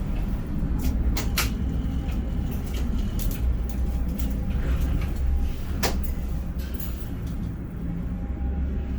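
Ship-to-shore container crane running with a steady low rumble, with a few sharp clicks and knocks about a second in and again near six seconds.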